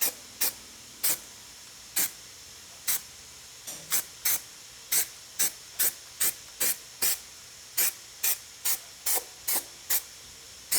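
Aerosol primer can sprayed in about twenty short hissing puffs, unevenly spaced, up to about two a second, priming freshly welded bare steel.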